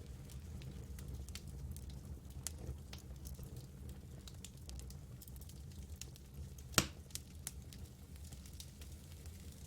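Campfire burning, with a low steady rumble and scattered small crackles, and one louder pop near the end.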